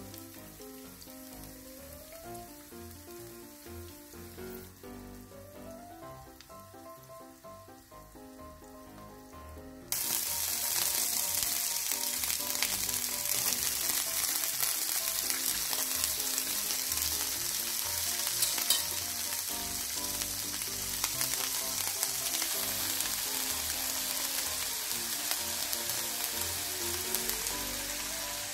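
Background music with a simple melody, then from about ten seconds in a loud, steady sizzle of garlic scapes stir-frying in hot oil in a pan, with the music continuing underneath.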